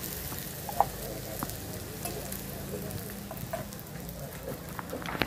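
Egg-and-cassava omelette sizzling in hot oil on a flat black pan: a steady hiss with scattered small pops, the sharpest about a second in.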